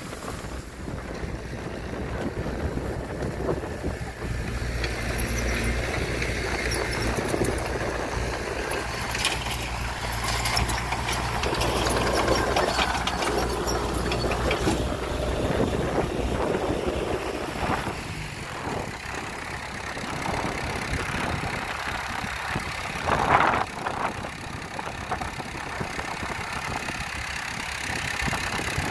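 Heavy diesel earthmoving machinery running, with a steady low engine drone for the first half and scattered mechanical clatter. A brief loud burst of noise comes about 23 seconds in.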